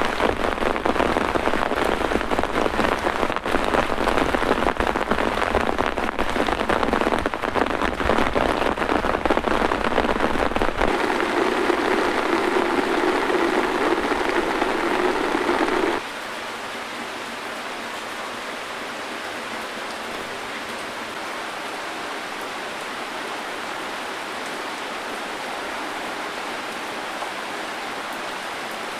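Heavy rain pouring down steadily. About halfway through the sound drops suddenly to a quieter, softer rain.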